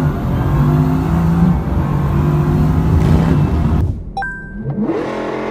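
A performance car's engine held at steady high revs, as on launch control, until it cuts off about four seconds in. After a brief quieter gap with a few faint electronic tones, an engine revs up, rising steeply in pitch near the end.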